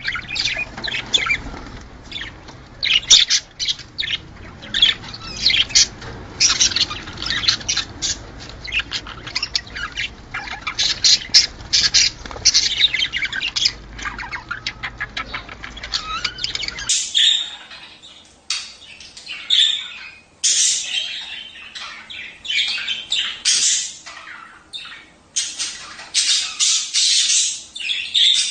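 A group of budgerigars chattering and squawking: a dense, continuous run of quick high chirps and warbles. About two-thirds of the way through, the low background hum drops out abruptly as the recording cuts to another take of the same chatter.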